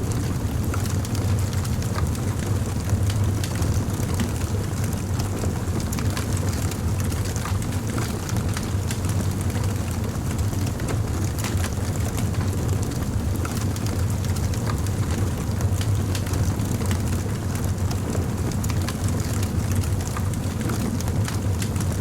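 Wood fire crackling, with frequent small irregular pops over a steady low rumble.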